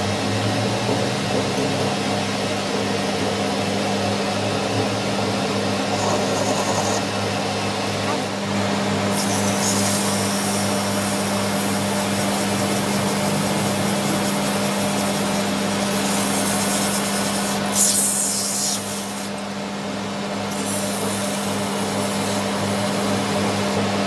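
Workshop power tool running with a steady motor hum, with several stretches of harsh, hissing cutting or grinding noise on metal.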